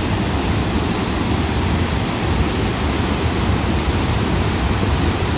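Flash-flood water rushing in a loud, steady torrent.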